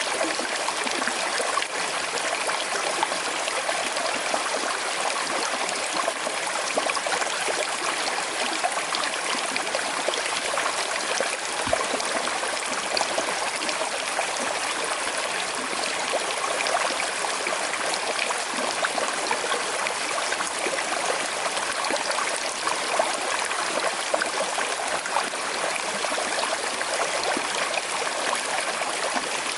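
A small, slow-flowing river running over stones: a steady babble and trickle of water.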